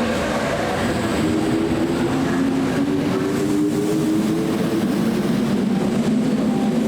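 Train running: a steady rumble with a low hum that drifts slightly in pitch.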